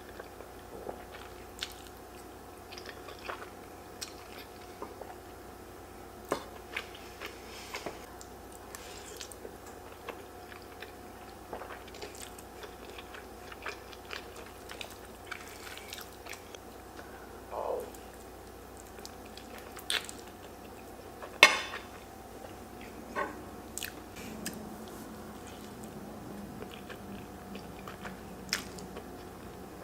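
Close-miked chewing and eating of creamy pasta: scattered soft, wet mouth clicks and smacks over a faint steady hum. One sharp click is louder than the rest, about two-thirds of the way through.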